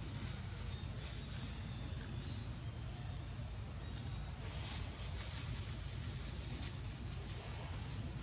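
Outdoor ambience: a steady low rumble with scattered short, high-pitched chirps every second or so, and a brief rustle about halfway through.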